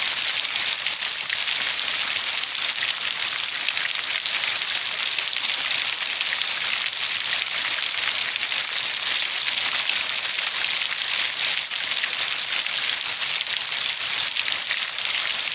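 Steady rain falling: an even, dense hiss, strongest in the high range, speckled with the fine ticks of individual drops.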